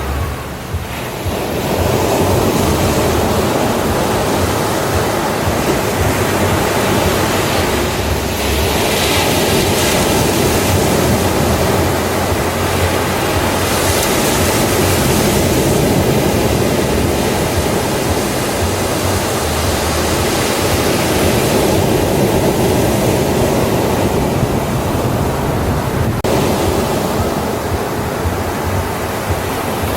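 Ocean surf breaking on a beach: a continuous wash of waves, with two stronger waves hissing in, about a third of the way through and again around halfway.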